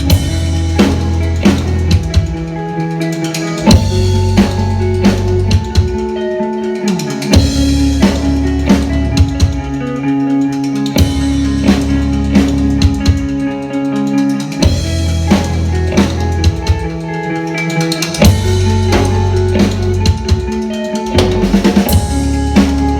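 Live rock band playing an instrumental passage: drum kit with bass drum and snare hits, electric guitar and bass holding chords that change every couple of seconds.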